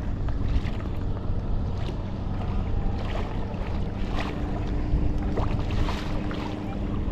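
Water splashing and lapping around a kayak, with wind buffeting the microphone and a steady low hum underneath.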